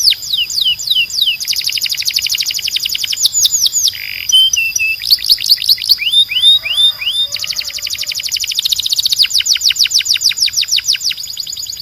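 Timbrado canary singing: fast trills of repeated downward-sweeping notes, changing from one tour to the next, with a short buzzy note about four seconds in.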